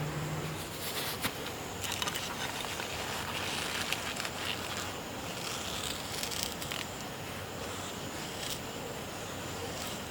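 Outdoor ambience with a thin, steady high insect buzz, broken by scattered small clicks and rustles.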